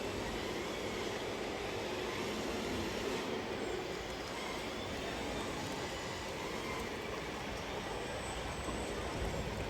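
Scale RC model trucks and tractors running: a steady mix of small-motor and gear noise.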